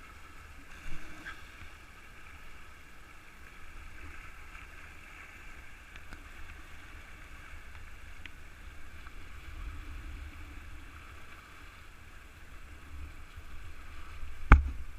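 Steady rush of river water, with a low rumble underneath and one sharp knock near the end.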